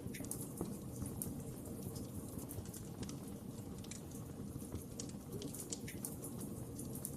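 Wood fire in a fireplace crackling, with many small irregular pops and snaps over a steady low rumble of the flames.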